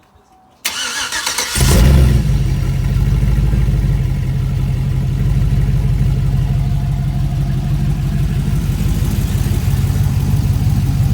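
A freshly cammed 5.3 L LS V8, with a BTR Stage 2 truck cam, shorty headers and the muffler disconnected, is cranked by the starter for about a second. It catches, flares up and settles into a steady, loud idle. This is only the engine's second start since the cam swap, and it is still untuned.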